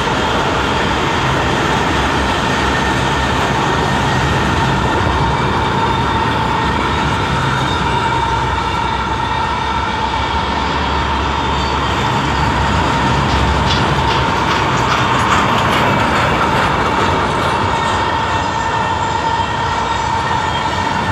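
Covered freight wagons rolling past at speed: a steady rumble and clatter of steel wheels on rail, with a thin high ring running through it.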